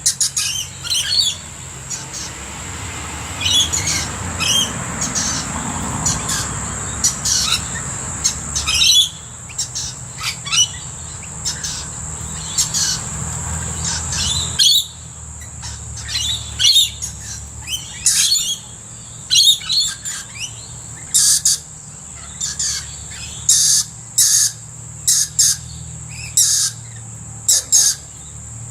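Many birds calling at once in a rapid run of short, shrill chirps and squawks, over a steady high-pitched tone. A low rumbling background in the first half stops suddenly about halfway through.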